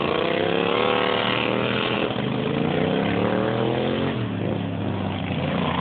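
Racing lawnmowers' two-cylinder engines running hard, their pitch rising and falling in slow sweeps.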